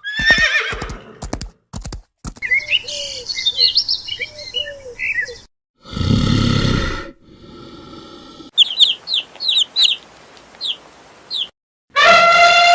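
A string of short animal-sound clips cut one after another, mostly birds chirping and cheeping in quick falling notes. A loud, harsh noisy burst comes about six seconds in, and a long, loud pitched call starts near the end.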